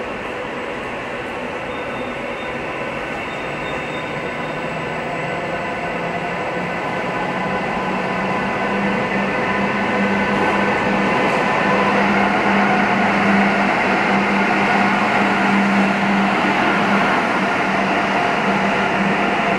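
Departing City Night Line sleeper train rolling past inside an enclosed underground station. Its wheel-on-rail rumble grows steadily louder as it gathers speed. Steady humming tones join in and strengthen as the electric locomotive at the end of the train approaches and passes near the end.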